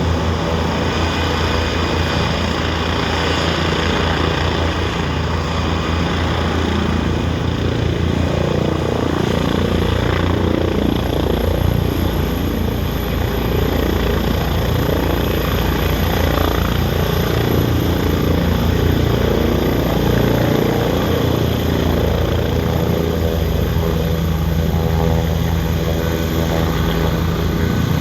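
Helicopter running loud and steady, its rotor blades beating rapidly, with a thin high whine joining about ten seconds in.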